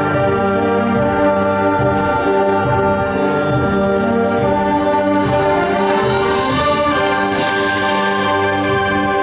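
High school concert band playing held, sustained chords with brass prominent, at a steady loudness.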